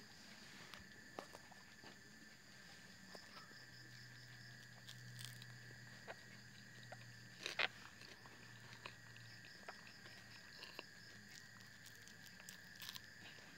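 Faint chewing of fried bakwan fritters, close to the microphone, with scattered soft crunches and mouth clicks and one sharper crunch about halfway through, over a steady high-pitched drone.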